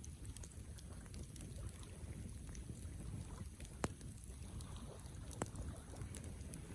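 Wood campfire crackling, with scattered sharp pops and ticks over a low steady rumble. The loudest pop comes a little before four seconds in and another about five and a half seconds in.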